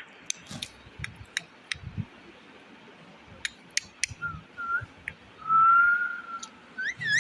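Parrot whistling: a couple of short whistles, then one long steady whistle about five and a half seconds in, the loudest sound, and quick rising chirps near the end, among scattered sharp clicks.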